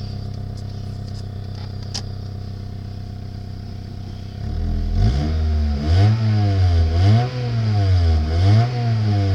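2004 Honda Civic four-cylinder engine idling steadily, then, about halfway through, revved up and down repeatedly in quick throttle blips, its pitch rising and falling about once a second.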